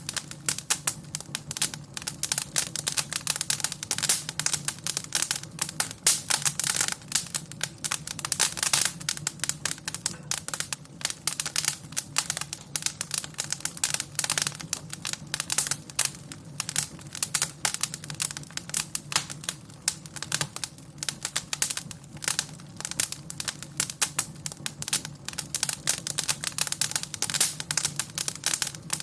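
Wood fire burning in a fireplace, crackling and popping continuously with irregular sharp snaps over a low steady hum.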